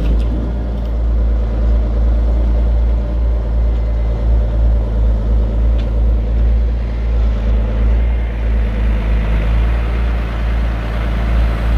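Diesel log truck engine running steadily, a loud, constant low hum.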